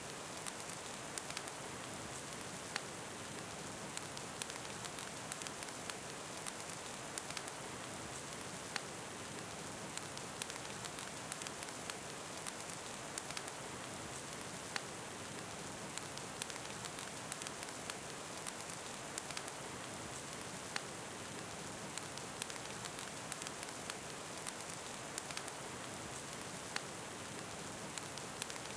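Steady rain hiss with a fireplace crackling, many small sharp pops scattered irregularly throughout.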